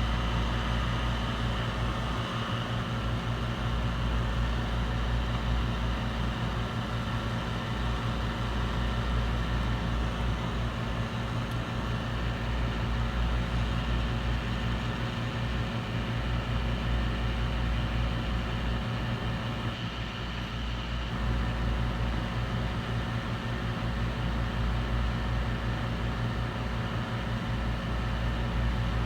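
Steady electrical hum with a constant fan-like rush, as from bench equipment running during a board repair; it dips briefly about two-thirds of the way through.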